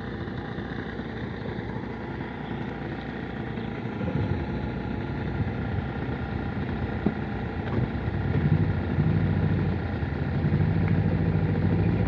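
Motorcycle engine running, growing louder about four seconds in and holding a steady, stronger note through the last few seconds.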